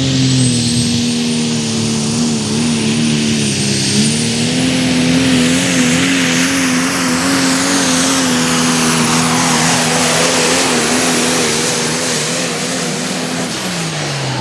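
Super stock diesel 4x4 pulling truck's turbocharged engine at full throttle under load, held at a steady high pitch that wavers slightly, with a high whistle above it. About a second before the end the engine drops off and its pitch falls.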